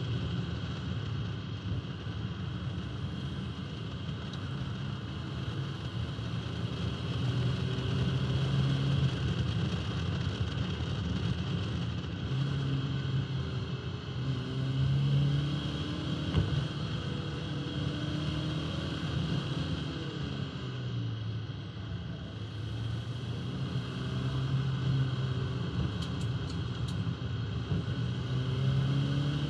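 1971 Alfa Romeo 1750 GTV's twin-cam four-cylinder engine driving along a winding road. Its note rises and falls repeatedly as the car accelerates and eases off through the bends. Road and wind noise reach the microphone mounted outside on the car body.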